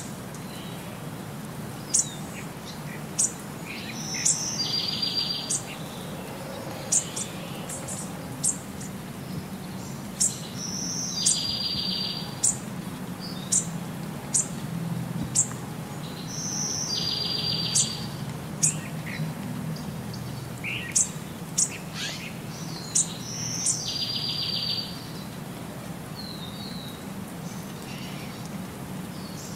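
Birdsong: a short buzzy chirp phrase repeated about every six seconds, with sharp single high chirps in between, over a low steady background noise.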